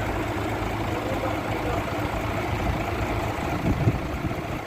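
Boom truck engine running steadily at idle, with a brief low thump a little under four seconds in.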